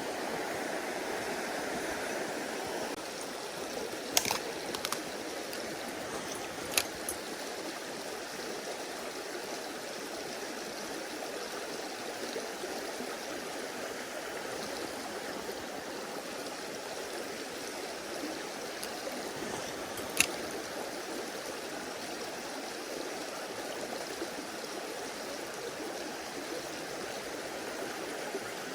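Mountain stream rushing and burbling steadily, with a few short sharp clicks: several about four to seven seconds in and one about twenty seconds in.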